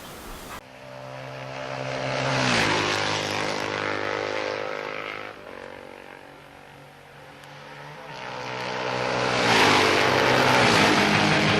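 Two vehicle pass-bys. Each one's engine drone builds up and then drops in pitch as it goes past: the first about two and a half seconds in, the second near the end.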